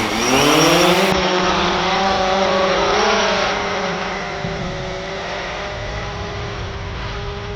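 Quadcopter drone's electric motors and propellers spinning up with a sharply rising whine at take-off, then holding a steady buzzing pitch, which lifts slightly about three seconds in.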